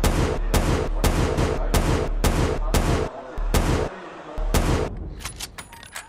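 Rapid gunfire, about three sharp shots a second with a brief pause partway, stopping about five seconds in; a few quick sharp clicks follow near the end.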